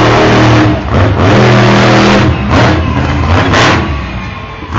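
Monster truck engine revving hard in repeated bursts, loudest in the first two seconds and easing off near the end.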